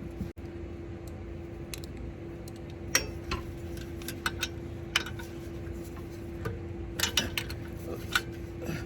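Metal hand tools clinking against metal engine parts, a handful of sharp clinks spread a second or two apart, over a steady low hum.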